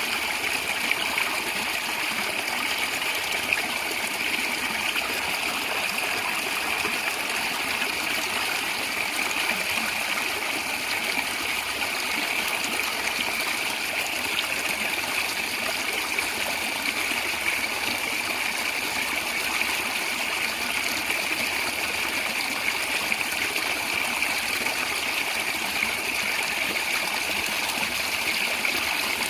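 Stream water running and gurgling, a steady rush of flowing water.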